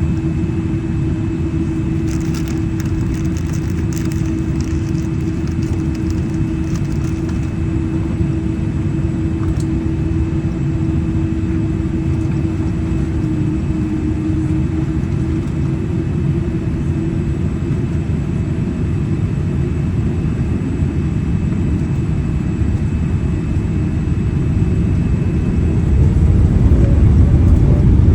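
Cabin noise of a Boeing 787-8 Dreamliner with GEnx engines, heard from a window seat: a steady low rumble with a constant hum. The rumble grows louder near the end.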